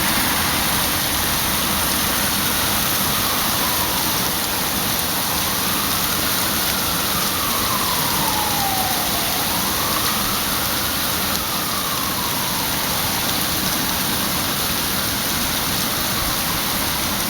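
Heavy rain pouring steadily, with a faint emergency-vehicle siren wailing slowly up and down through the middle.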